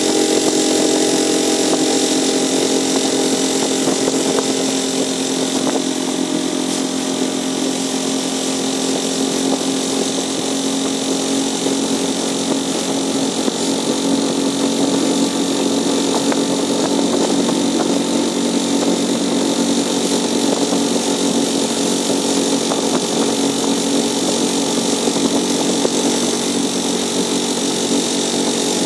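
Small 4-horsepower outboard motor running steadily at full throttle, pushing a loaded small boat through light waves, with water splashing against the hull.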